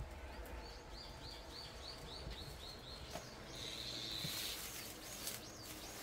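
A songbird singing a quick run of about ten repeated high chirps, roughly four a second, then a short buzzy trill and a few more notes near the end, over a faint hiss of rain.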